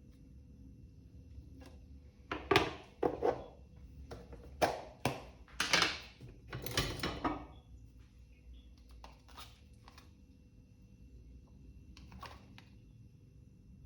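A run of knocks, taps and short scraping or rustling sounds of objects being handled, bunched in the first half, then a few faint clicks.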